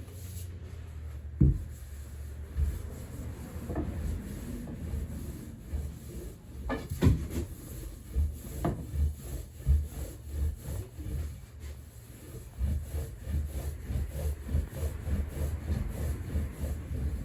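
Wooden soba-making tools rubbing and rolling over buckwheat dough on a wooden board, with a few sharp wooden knocks. The strokes grow quicker and more rhythmic near the end.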